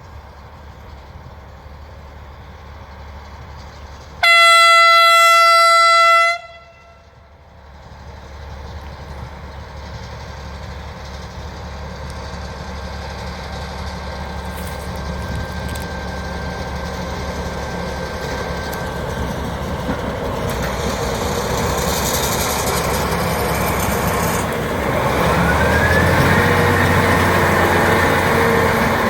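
Diesel locomotive sound: one horn blast lasting about two seconds, the loudest sound. After it, engine and running noise build up steadily, with a rising whine near the end.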